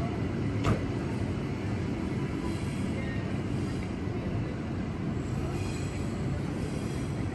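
Steady low rumble of a train running, with one sharp click about a second in.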